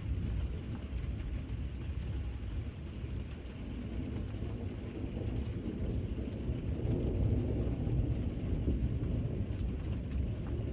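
Steady rain hiss with a low rolling rumble of thunder that swells past the middle and eases off near the end.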